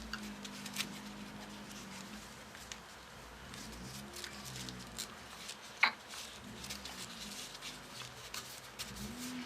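Folded paper modules being handled and fitted together: light paper rustling and small clicks, with one sharper click about six seconds in.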